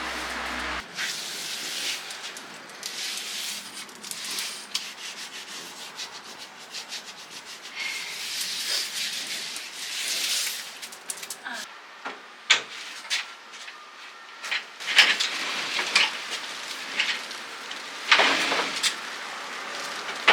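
Irregular back-and-forth hand rubbing over balcony furniture, a dry abrasive scraping like sanding or scrubbing. The strokes grow louder and sharper in the second half.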